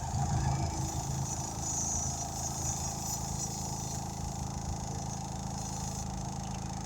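Air compressor starting up and running steadily, inflating a freshly patched car tire.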